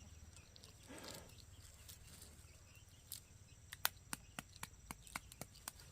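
Sharp crackling pops from a fire roasting eggs, scattered at first and then coming about three to four a second from about three seconds in, over a low steady hum.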